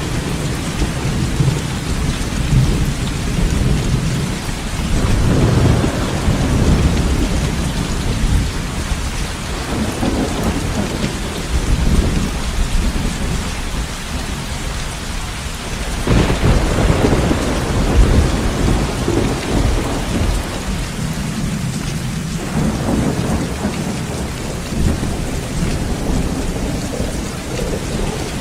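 Heavy rain falling steadily with rolling thunder. Several low rumbles swell and fade, and a sharper peal breaks in about halfway through.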